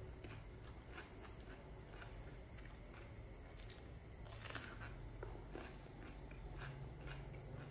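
Faint wet chewing and mouth clicks of someone eating raw cucumber, with one crisp bite into the cucumber about halfway through.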